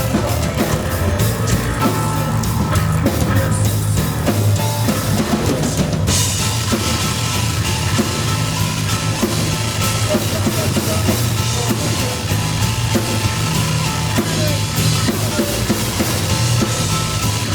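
Live rock band playing loud, with drum kit and bass guitar to the fore. About six seconds in, a wash of cymbals comes in over the top.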